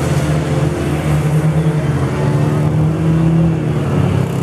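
Demolition derby car engines running and revving, a loud steady engine drone that shifts a little in pitch.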